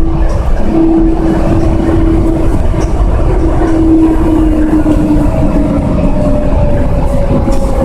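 Automated people-mover train running, heard from inside the car: a steady low rumble with a steady whine that fades out in the second half, and a higher whine that slowly falls in pitch over the last few seconds.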